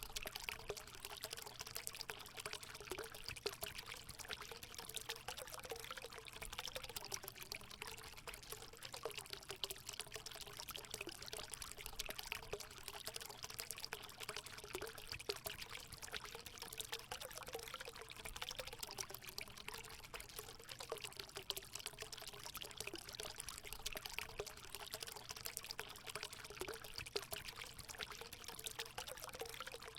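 Natural water running and pouring steadily into a hot spring pool: a continuous splashing trickle with a faint wavering gurgle underneath.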